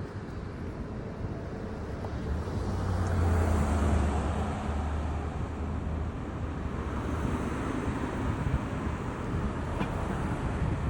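Road traffic: a motor vehicle going by, its low engine drone swelling to its loudest about four seconds in, over a steady hiss of tyre and road noise.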